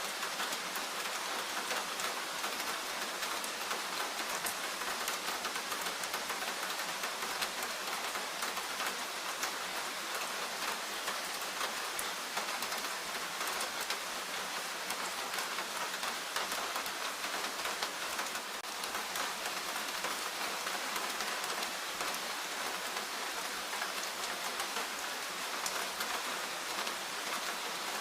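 Steady rain falling in a forest, with a dense patter of individual drops hitting surfaces.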